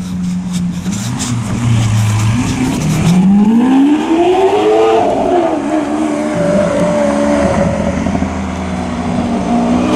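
Lamborghini Aventador's V12 engine pulling away: a low steady note at first, then the revs climb for about two seconds from around three seconds in, drop back and settle into a steady higher drone.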